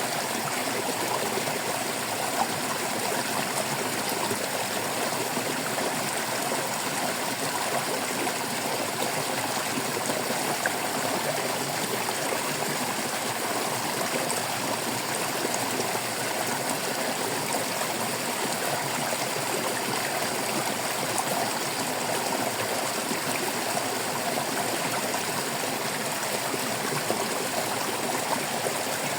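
Steady babbling and trickling of water in a flowing stream.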